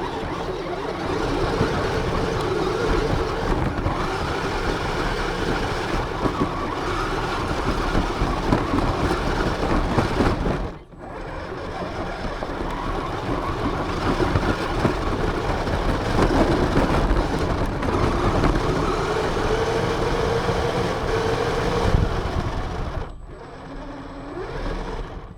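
RC car running, recorded from on board: a dense mechanical rumble and rattle from the motor, drivetrain and wheels, with a whine that rises and falls as the car speeds up and slows. It drops out briefly a little before halfway and eases off near the end.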